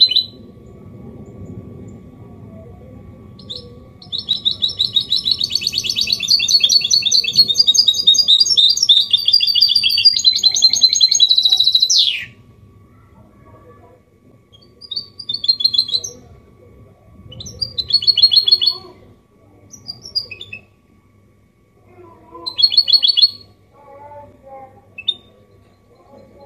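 Hybrid goldfinch (mule) singing: a long, fast twittering phrase of about eight seconds that ends in a quick downward slide, followed by several short separate bursts of song.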